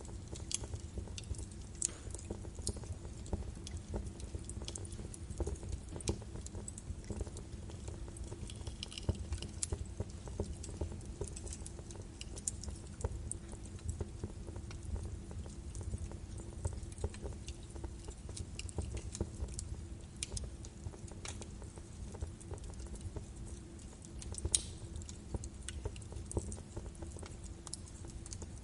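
Birch logs burning in a fireplace: irregular crackles and pops over a low rumble, with one sharper pop near the end.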